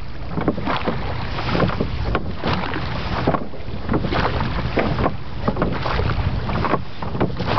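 Wind buffeting the microphone aboard a wooden rowing longboat on open water, with irregular short knocks and splashes of oars and water against the hull.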